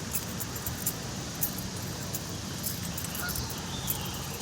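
Ducks calling faintly and briefly a few times over a steady low rumble of outdoor noise.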